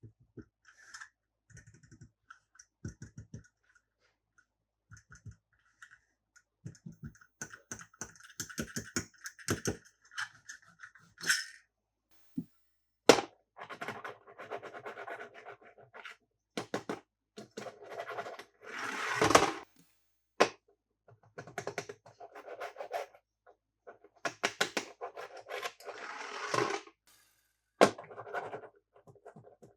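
Plastic toys and packaging being handled: scattered scratching and rubbing with sharp clicks, sparse at first and busier and louder from about halfway.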